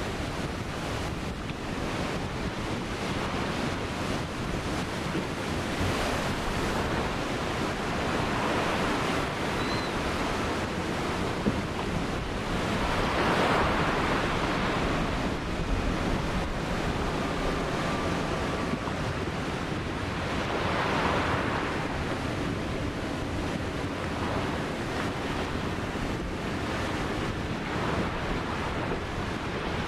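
Ocean surf washing in: a steady rush of breaking waves, with two louder swells as bigger waves break, about halfway through and again about two-thirds of the way through.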